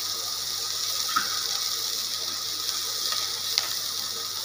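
Chopped onion, green chilies and ginger sizzling steadily in hot oil in a kadai, with a couple of faint clicks from the spatula stirring them.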